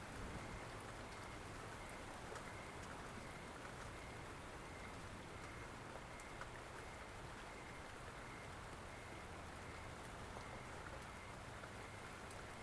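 Steady rain falling, with scattered sharp drop ticks. Behind it, a faint high tone pulses about twice a second.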